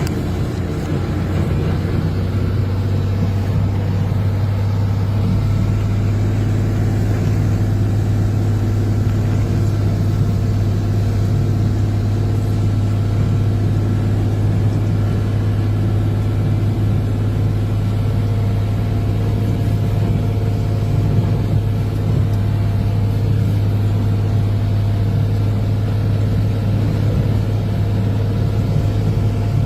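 A vehicle engine running at a steady speed, an even low hum that does not change.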